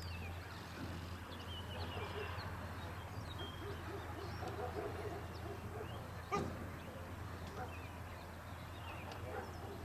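Songbirds chirping and trilling over a steady low hum, with one brief sharp sound about six seconds in.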